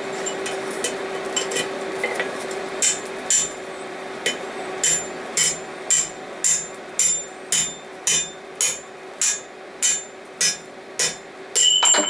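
Hammer blows on a steel drift being driven through the punched eye of hot bar stock: a few scattered taps, then steady ringing strikes about twice a second through the second half, ending in a louder ringing clang. The steel around the hole is thin, and the eye cracks under the drifting.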